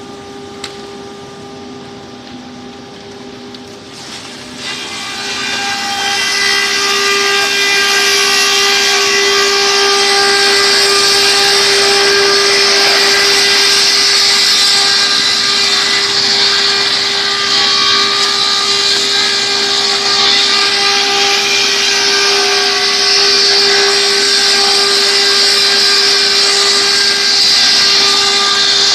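Sawdust mill grinding veneer into sawdust, running with a steady whine and a strong hiss. About five seconds in it grows much louder, then holds steady.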